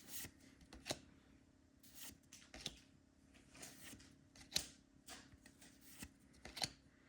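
Faint soft flicks and rustles of Pokémon trading cards being slid and flipped one by one through the hands, at an uneven pace of roughly one every second.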